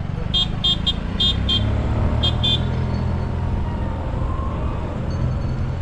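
Golf carts driving past, one sounding a small high-pitched horn in about seven short beeps in quick pairs during the first couple of seconds, over a steady low rumble of the passing carts.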